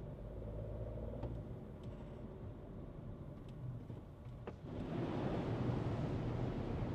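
Skoda Kushaq being driven: steady engine hum and tyre noise, with a few light clicks. About five seconds in the road noise turns louder and rougher.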